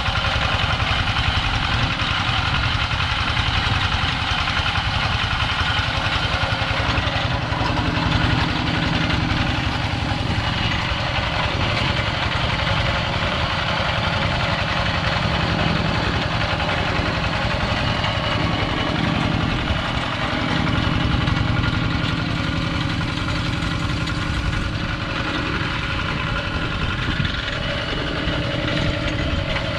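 Two-wheel walk-behind tractor's engine idling steadily.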